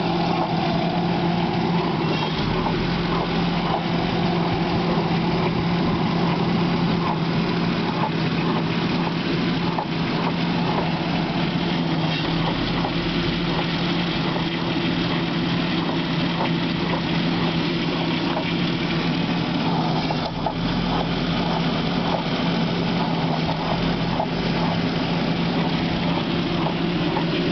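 2003 Volkswagen EuroVan running at idle with the air conditioning on, a steady hum overlaid by irregular crunching clicks: the crunch noise that appears when the AC is switched on.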